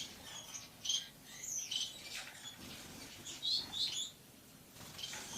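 Lovebird chirping: short, high-pitched chirps in several quick bunches.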